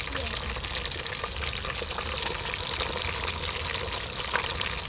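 Fish frying in hot oil in a pan: a steady sizzle with scattered small pops and spits.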